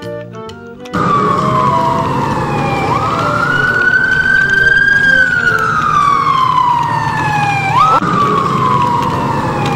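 Emergency-vehicle siren wailing: a tone that falls slowly, jumps quickly back up and rises again, over a steady low rumble. It cuts in about a second in, right after a short xylophone-like music jingle ends.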